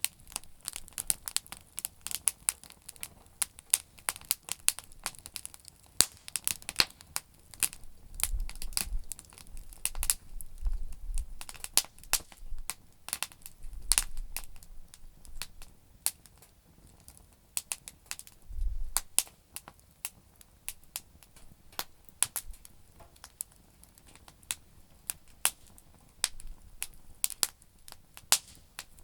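Campfire of damp firewood crackling and popping with irregular sharp snaps, with a few brief low rumbles of wind on the microphone.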